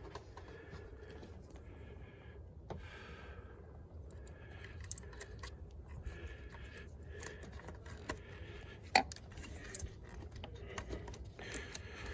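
Light metallic clicks and rattles of tools and small parts being handled during engine work, with soft rustling between them and one sharp click about nine seconds in.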